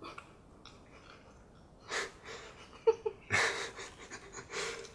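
Heavy, wheezy breathing through the nose of a person with a mouth stuffed full of marshmallows: a noisy puff about two seconds in, then a run of breaths from about three seconds on, with a brief muffled vocal sound between them.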